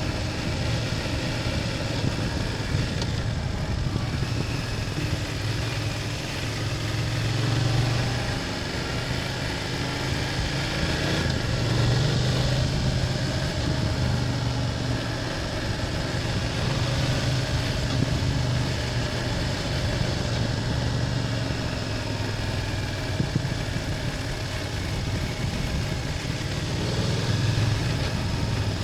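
BMW F800GS's parallel-twin engine running under way, its revs rising and falling gently with the throttle.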